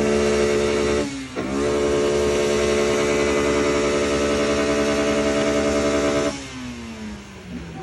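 Car engine revved and held at high rpm at a steady pitch. It drops briefly about a second in and climbs straight back, then is let off about six seconds in, the revs falling away.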